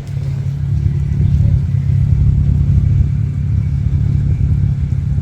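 ATV engine running steadily under load while pulling a stuck machine out of mud.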